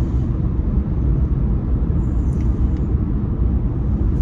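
Steady road and engine rumble of a car heard from inside the cabin while driving, low-pitched and even.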